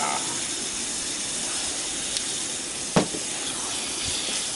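Pork belly sizzling steadily in a cast-iron skillet, with one sharp knock about three seconds in.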